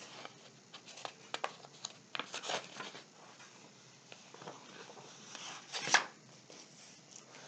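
Paper rustling and soft clicks as picture-book pages are handled and turned, with a louder, sharper page rustle about six seconds in.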